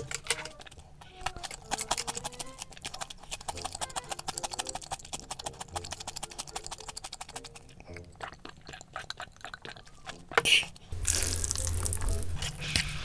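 Rapid small clicks and clatter, then water gushing from a tap for the last couple of seconds, under soft background music.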